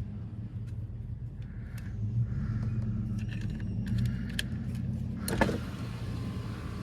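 Scattered clicks and small rattles of hands working a plug and parts in a pickup's door, over a steady low hum, with one sharper clack a little over five seconds in.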